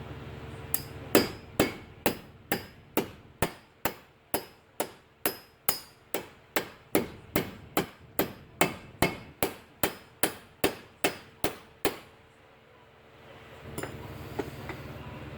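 Hammer striking metal in a steady run of about two dozen blows, roughly two a second, each with a short ring. The blows stop near the end.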